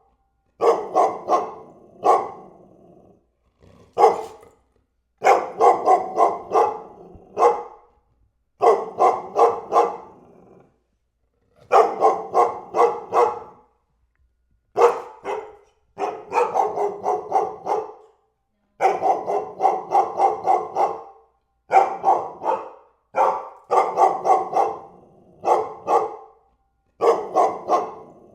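A dog barking over and over, in runs of three to six barks in quick succession with short pauses between the runs.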